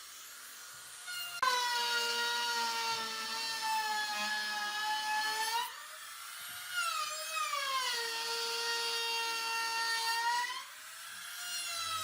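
An electric power tool's motor whining at a high steady pitch. It comes in sharply about a second and a half in, and twice its pitch sags and climbs back up.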